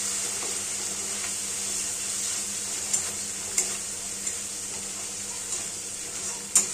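Ground spice paste sizzling in hot oil in a kadai as it is stirred and fried down (kosha) with a flat steel spatula. A few short scrapes and clicks of the spatula against the pan are heard, one about three seconds in and a sharper one near the end.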